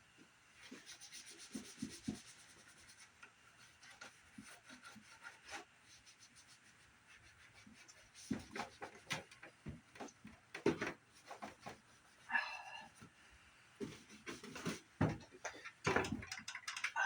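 Disinfecting wipe rubbing over a CRT monitor's plastic case and screen, cleaning off caked dirt, with scattered knocks and clicks as the monitor is handled on the desk and a brief squeak about twelve seconds in.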